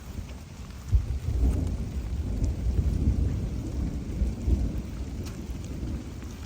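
Rain falling, with a low rumble that swells about a second in and eases near the end, and a few sharp raindrop ticks.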